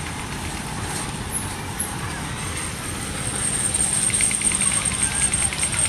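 Small amusement-ride train running around a night market, a steady rumbling with a thin high whine that grows louder about three and a half seconds in.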